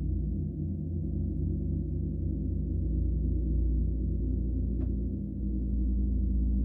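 Gong resonating in a sustained low drone, many steady tones pulsing together. A faint click comes about five seconds in.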